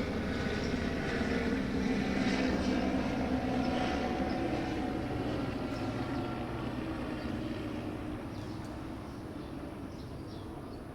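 A vehicle engine running steadily, slowly fading away over several seconds.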